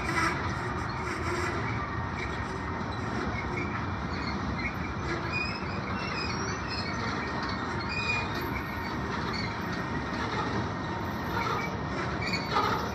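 Freight cars rolling past on the track: a steady rumble of steel wheels on rail, with short, high wheel squeals scattered throughout and a clank at the start and another near the end.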